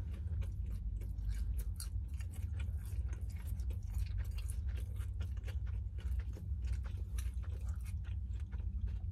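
A person chewing a mouthful of chicken salad sandwich close to the microphone, with many quick mouth clicks, over a steady low hum.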